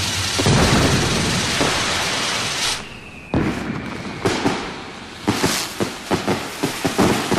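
Fireworks going off: a dense run of blasts, a short lull about three seconds in, then a quick string of sharp cracks and bangs toward the end.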